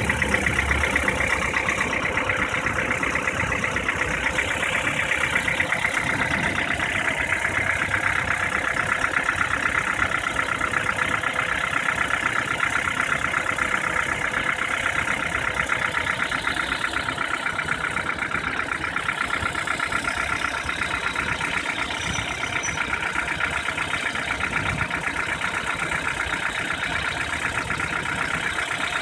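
Ford Duratec 1.6 four-cylinder petrol engine idling steadily with a fast, even knocking.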